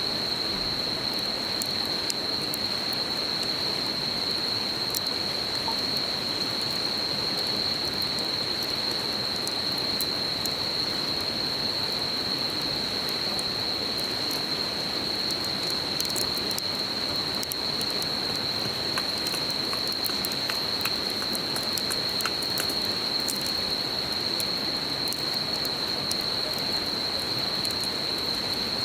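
Insects sing one unbroken, high-pitched trill over the steady murmur of a river. A wood campfire gives off scattered small crackles and pops, a few of them clustered around the middle.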